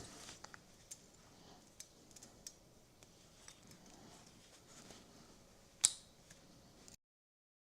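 Faint scattered clicks and light taps of small tools and metal parts being worked on the model-airplane engine's muffler, with one sharp click about six seconds in. The sound cuts to dead silence near the end.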